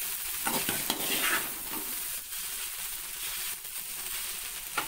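Chopped okra frying with little oil in a metal pan, sizzling steadily while a spatula stirs and scrapes through it, with a few sharper scrapes. The okra is about 70% fried, being cooked down so its sliminess goes.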